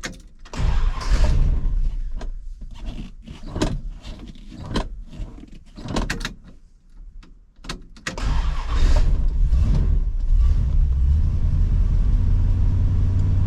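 Plymouth Superbird's 440 Six Pack V8 being cranked in several uneven bursts, then catching about eight seconds in, revving briefly and settling into a steady idle, started up after sitting in storage.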